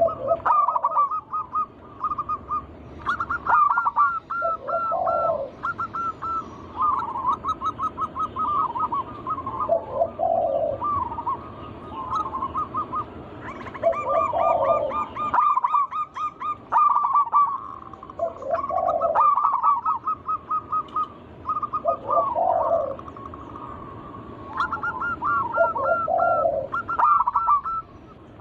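Zebra doves (perkutut) singing: phrase after phrase of rapid, staccato cooing notes, with lower rolling notes at the end of the phrases, repeated every couple of seconds.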